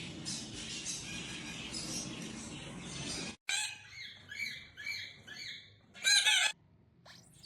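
A steady noisy hiss cuts off abruptly about three seconds in. Then a parrot gives a quick run of short repeated calls, about three a second, and one louder call near the end.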